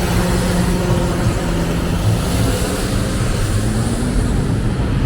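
Road traffic: motor vehicle engines running steadily with a low hum over road noise.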